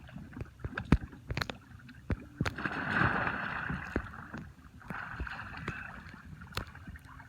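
A Feel Free Moken 14 sit-on-top kayak rolled over with its paddler: water splashing and sloshing, loudest about three seconds in and again more weakly a couple of seconds later, with a scatter of sharp knocks.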